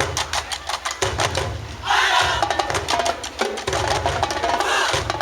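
High school marching band playing: the drum line beats a fast, steady cadence over deep bass drums. About two seconds in there is a loud group shout, and the horns then play short, repeated notes.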